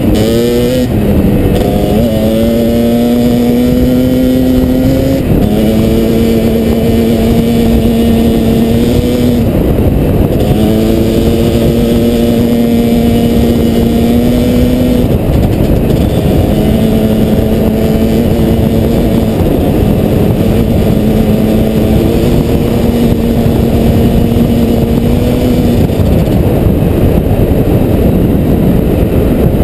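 Kawasaki KDX220 two-stroke single-cylinder dirt bike engine running under throttle while riding. Its pitch holds steady for a few seconds at a time with brief dips every few seconds, as when shifting or rolling off the throttle, over a constant rushing noise.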